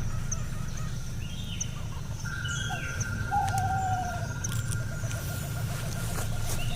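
Forest birds calling, owl-like: a falling whistled note about three seconds in and a fast trilling call near the end, over a steady low hum. A long steady high tone begins about two seconds in, and short high chirps repeat every second or so.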